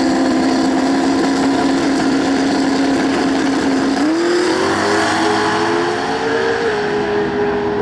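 Drag race car engine running hard at steady high revs, its pitch climbing about four seconds in and then shifting once more near the end.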